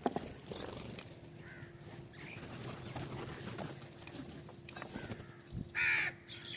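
Birds feeding at a feeder: scattered small taps and clicks, a few faint chirps, and one loud, short, harsh bird call just before the end.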